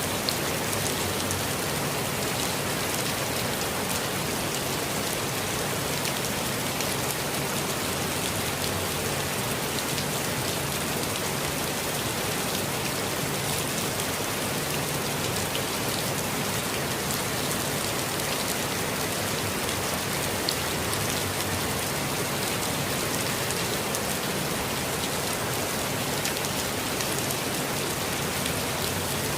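Steady rainfall: an even hiss of rain with occasional individual drops ticking on surfaces.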